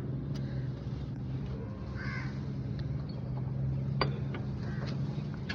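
Tractor engine running steadily with an even hum after a piston ring check. A single bird call sounds about two seconds in, and a sharp click near four seconds.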